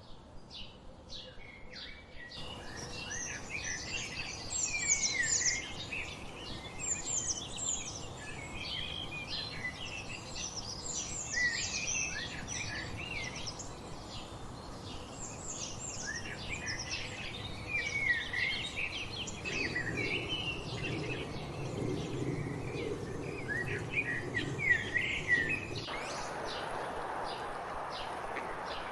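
Many wild songbirds singing and chirping together over a steady background hiss, the calls thickening about two seconds in. Near the end the birdsong stops abruptly and only an even rushing noise remains.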